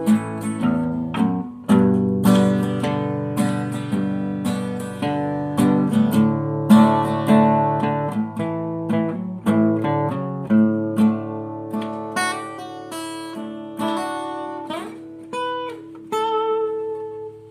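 Acoustic guitar playing an instrumental passage without vocals: picked and strummed chords that ring out. In the last few seconds it moves to sparser, higher single notes.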